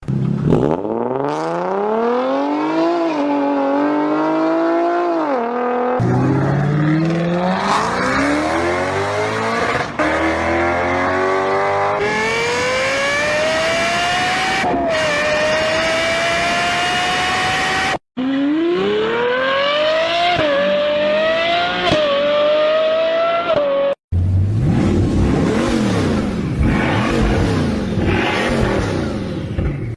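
A series of short clips of car engines accelerating hard. The pitch climbs and drops back at each gear change. The last clip is noisier, with cars passing by.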